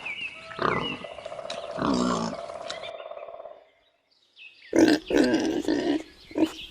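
Domestic pigs grunting in short, repeated bursts. The sound breaks off for a moment about four seconds in, then the grunting starts again, louder.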